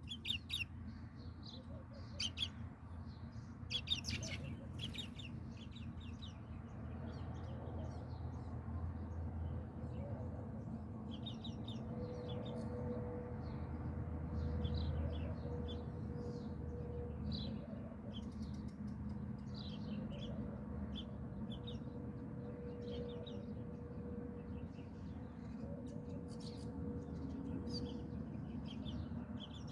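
Small birds chirping in many short, separate calls over a low, steady background rumble.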